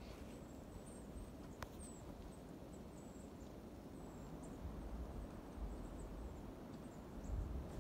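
Many faint, very high, thin bird calls, short notes repeated irregularly throughout, over a low rumble, with one sharp click about one and a half seconds in.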